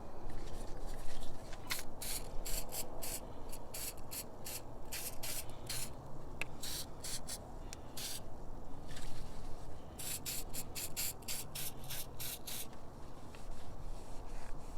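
Rapid short hissing strokes at a car battery terminal, about three a second, in two runs with a brief pause around the middle.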